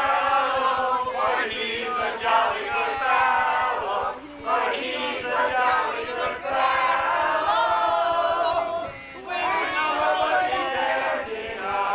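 Men's chorus singing a cappella in close harmony, in long held phrases with short breaks about four and nine seconds in.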